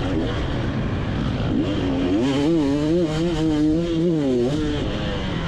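Two-stroke motocross bike engine heard from on board, its pitch climbing under throttle, wavering up and down for a couple of seconds, then falling away as the throttle is rolled off, over a steady rumble of noise.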